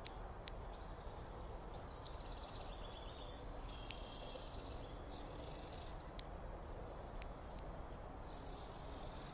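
Faint outdoor backyard ambience: high, chattering chirps, thickest between about two and five seconds in, over a steady low background hiss, with a few sharp ticks.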